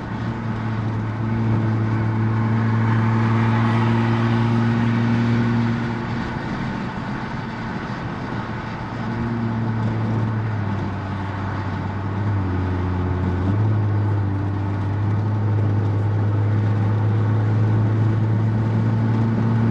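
Infiniti Q50 Red Sport's twin-turbo V6 with a Helmholtz performance exhaust, running at steady cruising revs with a deep, even drone. It eases off for a few seconds about a third of the way in, then picks up again, dipping briefly in pitch past the middle.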